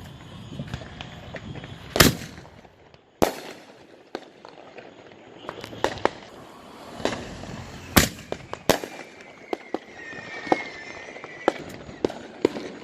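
Aerial fireworks going off: a string of sharp bangs at irregular intervals, the loudest about two seconds in and again about eight seconds in, with smaller pops and crackles between. A faint whistling glide is heard a little after ten seconds.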